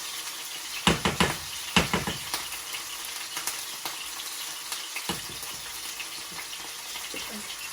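Butter sizzling in a hot pan, a steady frying hiss. A few sharp knocks, as of a utensil against the pan, come about one to two seconds in, and another just after five seconds.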